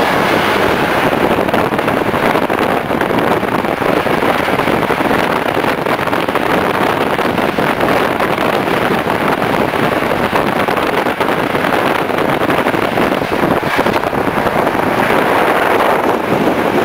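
Steady running noise of a moving passenger train, wheels on the rails, with wind rushing over the microphone at the open window.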